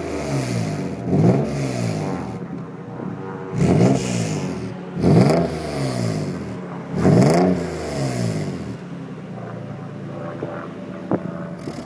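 Nissan 300ZX's V6 exhaust revved in four quick throttle blips, each rising and falling sharply, then settling back to a steady idle near the end.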